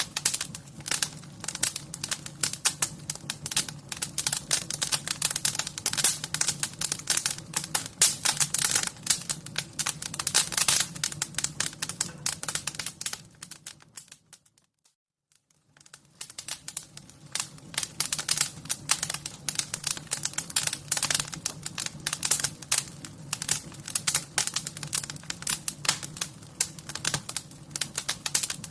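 Wood fire crackling in a fireplace: a dense run of sharp little crackles over a low steady rumble, fading out to near silence about halfway through and fading back in.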